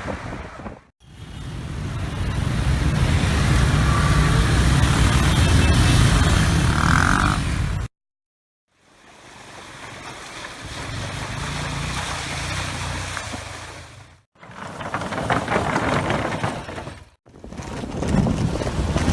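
Motorbike engines running under heavy wind noise on the microphone, in a string of short ride clips. The sound fades or cuts to silence between clips: about a second in, a longer gap midway, and twice more near the end.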